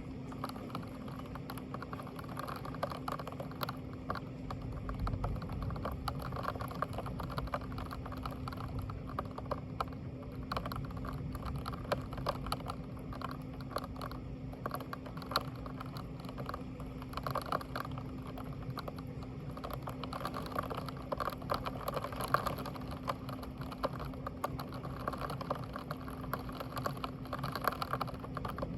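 Steady patter of rain, a dense run of irregular small clicks, over a constant low hum.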